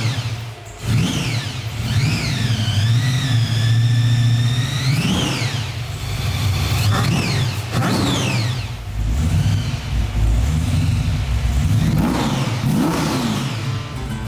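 1968 Chevrolet Camaro engine being revved over and over, its pitch sweeping up and falling back several times, with one longer rev held and wavering for a few seconds near the start.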